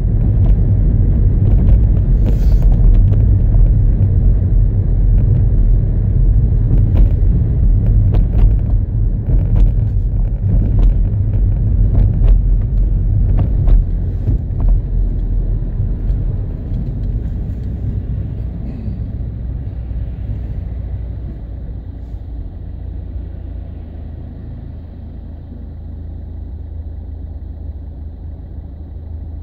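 Opel ecoFLEX car engine idling, heard from inside the cabin as a steady low rumble. It grows quieter over the second half as the rev counter needle sinks from about 1,100 toward 600 rpm. A few light clicks sound in the first half.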